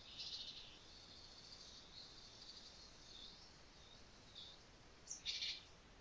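Faint high-pitched chirps of small birds over quiet outdoor background hiss, with the loudest chirps at the start and about five seconds in.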